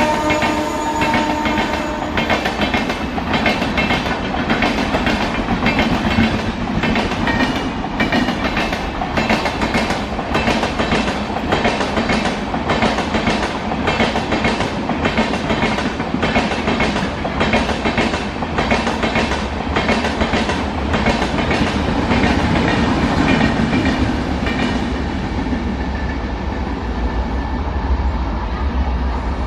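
Passenger express train running past, its wheels clicking steadily over the rail joints as the coaches go by, with the last of a locomotive horn fading out in the first two seconds. The clicking dies away about 25 seconds in, leaving a low rumble.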